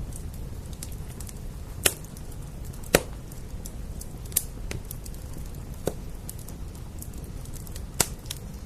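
Wood fire crackling, with about five sharp pops standing out over many faint ticks, the loudest about three seconds in, over the steady hiss of rain.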